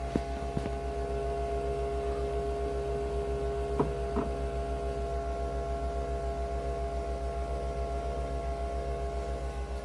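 Nespresso Vertuo Next coffee machine running with a steady electric hum over a rapid low throb, with a few light clicks near the start and about four seconds in.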